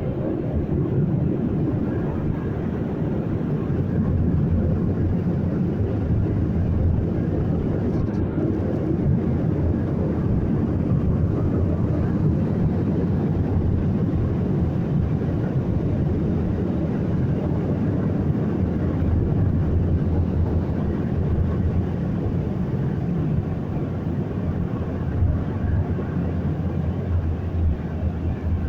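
Automatic car wash machinery running with a steady, loud rushing noise that is heaviest in the low range.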